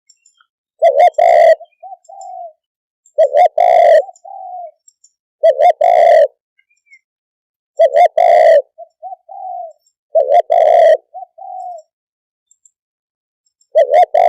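Spotted dove cooing: a repeated phrase of quick coos run into a longer one, given six times about every two and a half seconds, each followed by a softer short coo or two.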